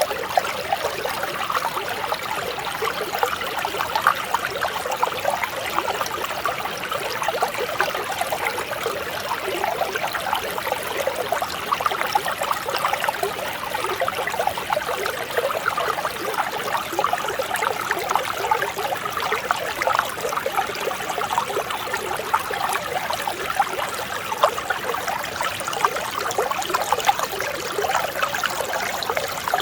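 Mountain stream flowing steadily, a gentle, even babble of running water.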